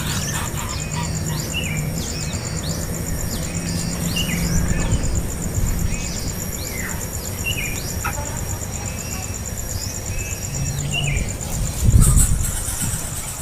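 Birds chirping over and over in short, sharp, downward-sweeping calls, over a steady, fast-pulsing insect trill. A low thump comes near the end.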